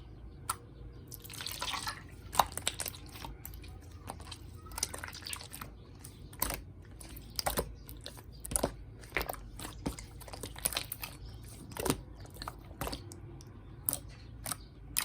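Slime being played with by hand: irregular sticky clicks and small pops, with short wet squelching stretches.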